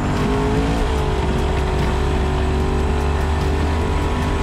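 Twin-turbo Oldsmobile Cutlass engine heard from inside the cabin under way, its note rising and then dropping about a second in, after which it holds a steady pitch over constant road rumble.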